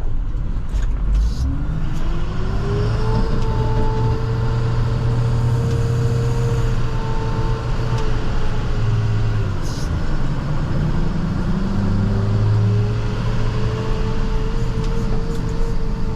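International TerraStar plow truck driving, heard from inside the cab: a low engine hum with a whine that rises as the truck picks up speed, holds steady, drops away about nine seconds in, then rises and holds again.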